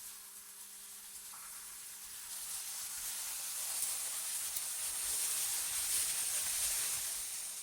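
Cold wind blowing with a high hiss, swelling in a long gust through the middle and easing off near the end, over a faint steady low hum.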